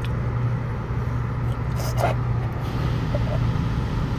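Steady low hum and wash noise heard from inside a car in an automatic car wash during the triple-foam stage, with a couple of faint knocks about halfway through.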